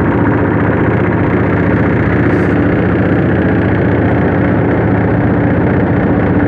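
River boat's engine running steadily, a loud even hum that does not change.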